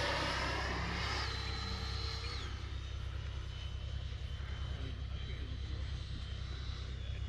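Radio-controlled model jets flying away after a close pass: a high-pitched whine fading and then holding faint and steady, its pitch stepping down about two and a half seconds in.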